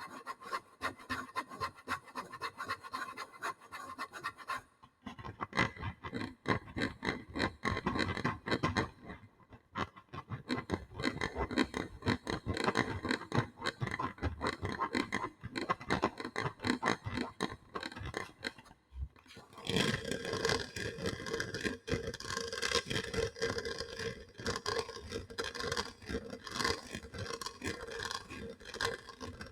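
ASMR trigger sounds: rapid scratching and rubbing on surfaces, changing abruptly to a different texture about five, nine and nineteen seconds in.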